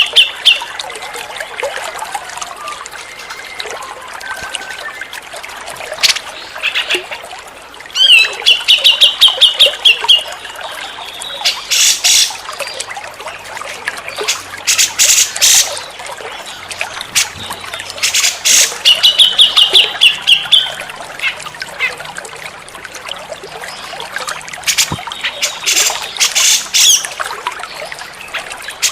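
Grey-cheeked bulbul (cucak jenggot) calling: quick trills of rapidly repeated notes, recurring every ten seconds or so, between loud harsh rattling bursts. A steady trickle of running water sounds throughout.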